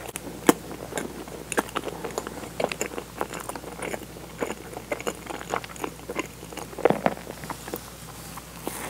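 Chewing a soft sugar-dusted donut filled with strawberry cream-an, picked up close by a clip-on microphone: soft wet mouth clicks and smacks at an irregular pace, sharpest about half a second in and again around seven seconds in.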